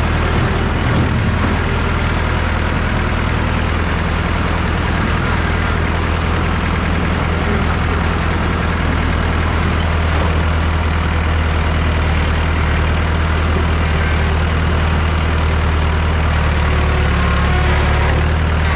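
Massey Ferguson 3165 backhoe tractor's engine running steadily and loudly.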